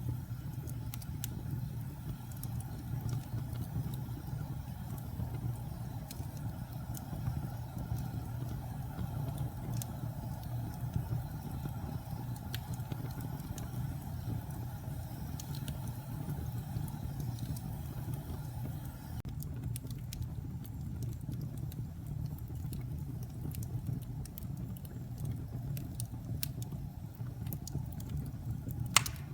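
Wood fire in a fireplace crackling: a steady low rumble of burning with scattered sharp pops, one louder pop near the end.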